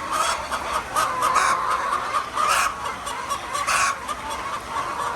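A flock of egg-laying hens clucking and calling, many birds overlapping in a steady chorus.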